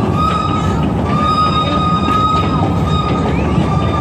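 Zoo train running on its track, heard from an open passenger car: a steady rumble with faint clicks from the wheels, and over it a steady high-pitched squeal from the wheels.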